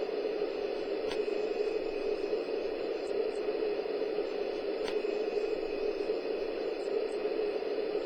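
Steady airliner cabin noise on landing approach: an even rush of engine and airflow noise with a faint, steady high whine.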